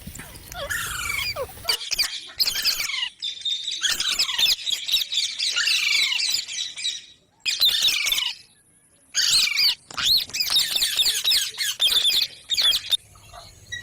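Green parrot chattering and squawking in fast runs of short, high chirps, with a brief pause a little past halfway before the chatter resumes.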